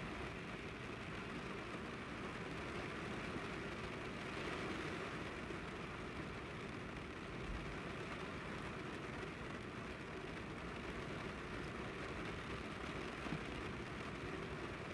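Steady rain mixed with the low rumble of idling traffic, heard through rain-covered glass.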